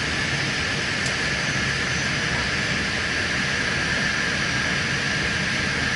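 Steady rushing noise on the flight deck of an airliner on short final: airflow and engine noise as it descends from about 200 to 100 feet above the runway.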